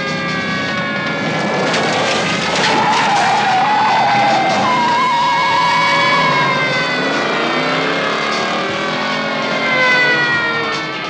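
Car engine running hard at high revs, its pitch sliding up and down as it accelerates and backs off, with tyres squealing for a few seconds in the middle.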